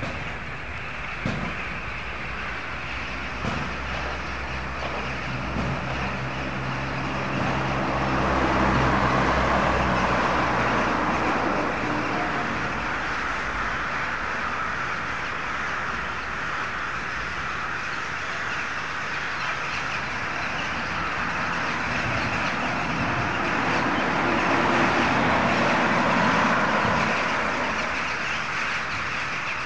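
A huge flock of birds calling all at once, a dense, continuous chatter that swells and fades as the mass moves overhead. A motor vehicle's engine hums underneath for a stretch in the first half.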